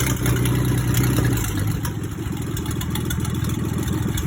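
Rebuilt 1930s Dodge engine on a stand, running moments after starting on its first run. Its speed drops back about a second and a half in, then it settles to a steady idle.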